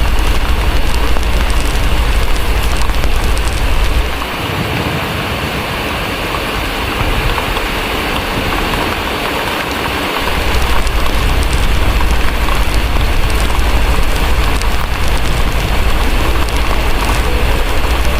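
Steady heavy rain with a fireplace crackling, over a deep low rumble that drops away for several seconds in the middle and then returns.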